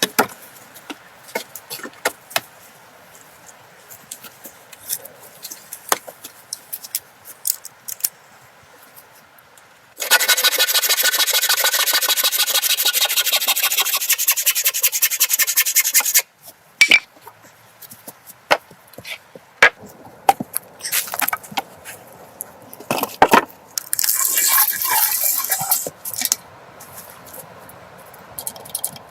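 Scattered light knocks and clicks, then a loud, steady rasping scrape, as of something rubbed hard over wood, starting about ten seconds in and lasting about six seconds. More knocks follow, and a second, shorter rasping stretch comes near the end.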